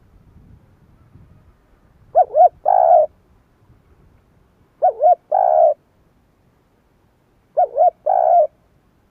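Spotted dove singing: three coo phrases about two and a half seconds apart, each two short coos followed by one longer coo.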